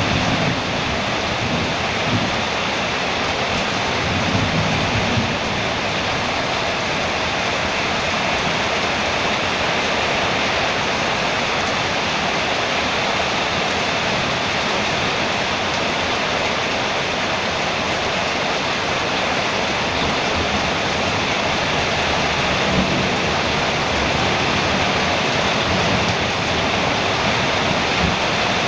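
Rain falling steadily on a metal roof, a dense even hiss, with a few brief low rumbles.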